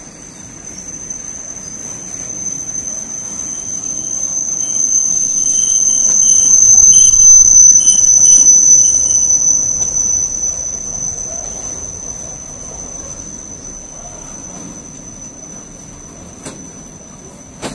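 Freight train of open box wagons rolling past, its wheels rumbling over the rails with a high, steady squeal. The sound swells to its loudest about seven or eight seconds in and then fades. A couple of sharp clicks come near the end.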